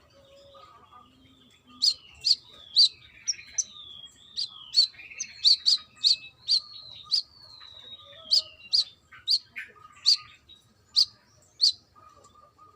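Brown-throated sunbird singing: a quick run of sharp, high chips mixed with short whistles that slide downward. The song starts about two seconds in and stops shortly before the end.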